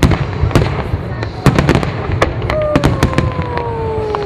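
Fireworks display: a rapid, uneven run of sharp cracks and bangs from bursting shells. About two and a half seconds in, a whistling firework starts a long whistle that slowly falls in pitch.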